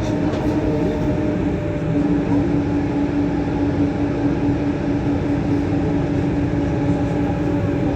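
Lyon Metro Line B rubber-tyred metro train running between stations, heard from inside the car: a steady rumble with a constant motor hum that shifts slightly about two seconds in.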